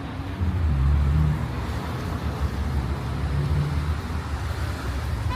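Street traffic: a motor vehicle's low engine rumble swells about half a second in and eases off after about a second, with another, weaker swell a little later, over a steady hiss.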